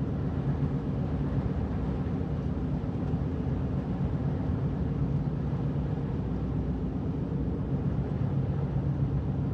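Steady in-cabin drive noise of a four-wheel-drive vehicle cruising at about 40 mph on a snowy road: a constant low engine and road drone with a steady hum.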